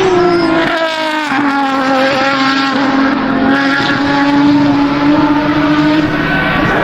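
V12 supercar engine running hard at high revs. Its pitch drops over the first second or so, then holds nearly steady.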